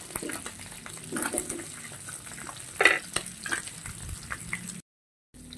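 Fish roe, garlic, onion and chili sizzling in a frying pan while a wooden spatula stirs and scrapes, with scattered small clicks and louder scrapes about one and three seconds in. The sound cuts out for a moment near the end.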